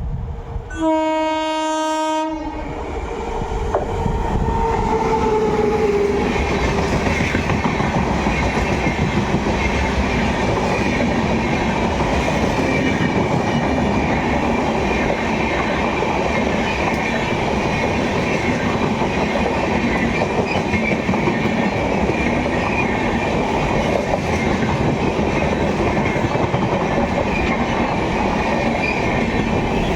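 An Indian Railways WAP7 electric locomotive sounds one horn blast of about a second and a half as it approaches, then passes with a falling whine. Its express train's coaches then rumble past steadily, with wheel clatter on the rail joints.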